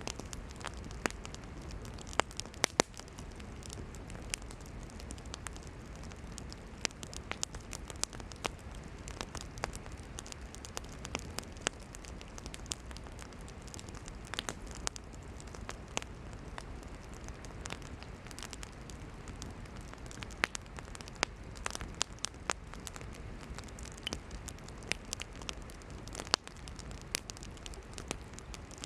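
Campfire of burning firewood crackling, with irregular sharp pops and snaps over a low steady rush of flame.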